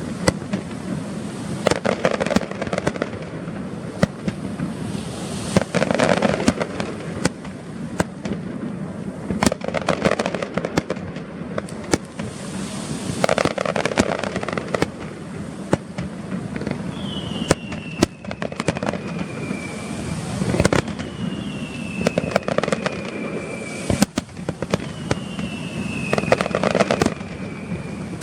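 Aerial fireworks display: a dense, continuous run of sharp bangs and crackling, with a louder burst every couple of seconds. From about halfway on, a falling whistle sounds about every three seconds.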